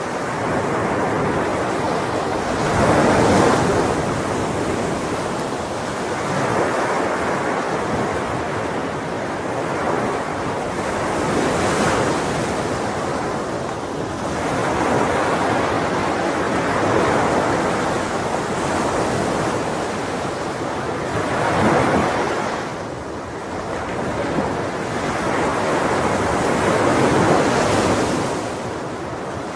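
Ocean waves breaking and washing on the shore in a steady surge, each wave swelling and falling back every several seconds.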